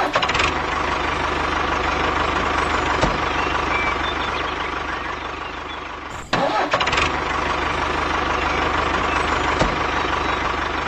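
Tractor engine running steadily at idle, with a short break about six seconds in before it carries on.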